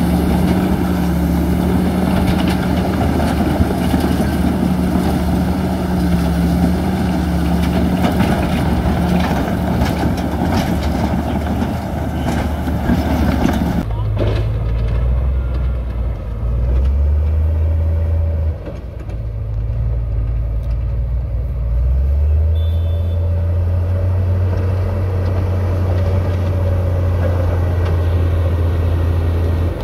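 Heavy construction machinery's diesel engines running. About halfway through, the sound changes abruptly to a lower, deeper engine note that shifts up and down a few times.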